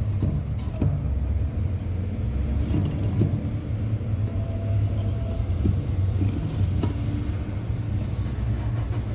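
A steady low engine rumble runs throughout, with a few light clicks and knocks from work on top of it.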